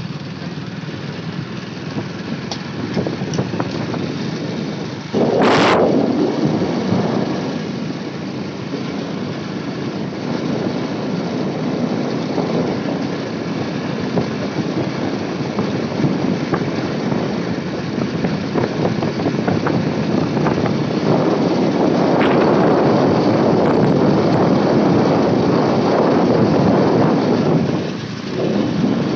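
Motorcycle running on the move, a steady engine and road noise with a sudden louder rush about five seconds in and a brief dip near the end.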